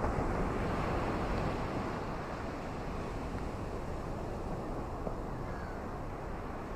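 Ocean waves washing on a shore: a steady surf hiss that swells in the first second, then slowly eases.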